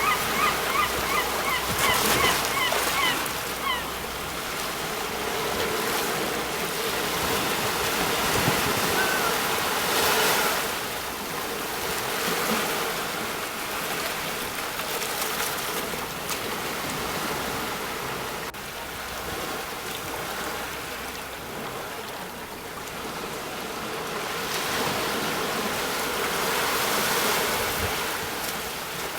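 Sea waves breaking and washing on a shore, swelling and easing every few seconds. A bird calls over them in a quick run of short notes during the first few seconds.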